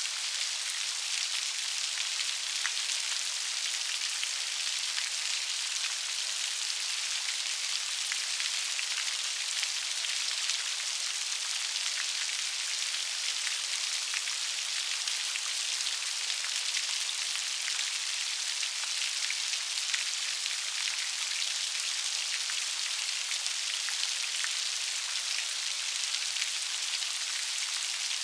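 Steady rain, a dense even hiss of many small raindrops pattering on a surface.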